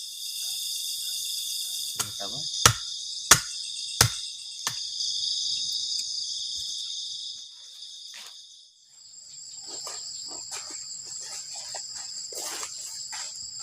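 Steady high-pitched chorus of forest insects, thinning to a single thinner drone about halfway through. Five sharp knocks come between about two and five seconds in, roughly two-thirds of a second apart.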